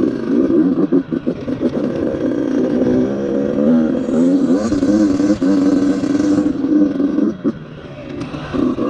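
Dirt bike engine running and revving, its pitch rising and falling with the throttle, with a rushing hiss in the middle. Near the end it drops back briefly, then picks up again.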